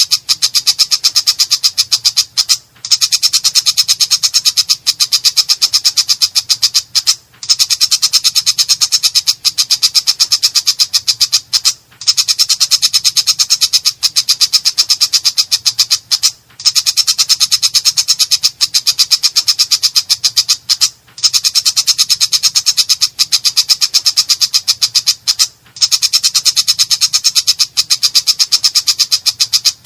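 Long-tailed shrike giving a harsh, very rapid chattering call in bursts of about four and a half seconds. Each burst is separated by a short break, and the pattern repeats evenly.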